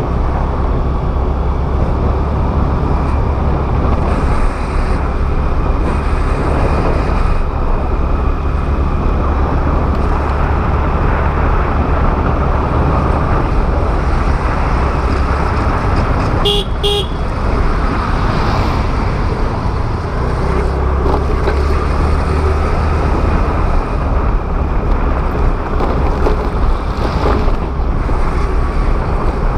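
Steady wind and road noise from riding a Honda Activa scooter, with a vehicle horn beeping twice in quick succession about halfway through.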